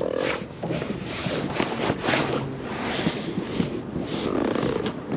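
Irregular rustling, scraping and light knocks of hands and gloves handling a fish aboard a small boat, over wind.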